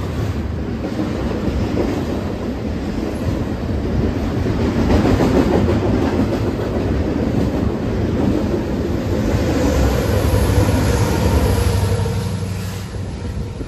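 A train passing close by on the rails, its wheels clattering steadily over the track, loudest midway and dying away near the end as it goes by.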